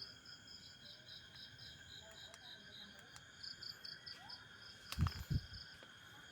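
Night insect chorus: crickets chirping in quick, regular pulses over a steady high-pitched drone. About five seconds in, two dull thumps stand out louder than the chorus.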